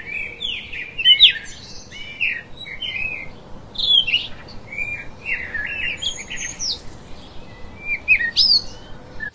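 Several songbirds chirping and calling in a busy run of short, quick notes, one after another.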